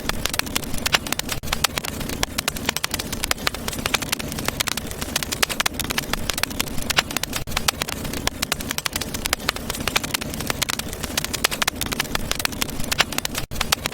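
Wood fire crackling in a fireplace: dense, irregular pops and snaps over a steady low rumble of burning logs, with a brief sudden dropout near the end.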